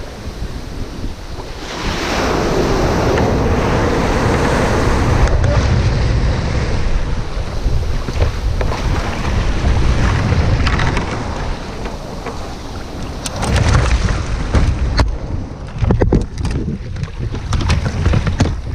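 Sea surf breaking, a rushing wash that swells about two seconds in, with wind buffeting the microphone. Several sharp knocks near the end.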